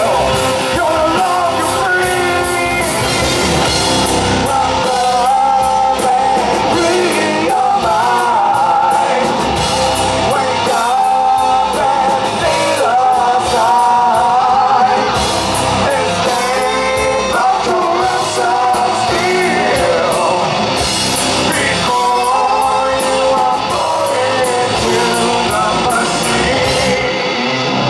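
Live heavy rock band playing loud, with electric guitar, drums and a singing voice.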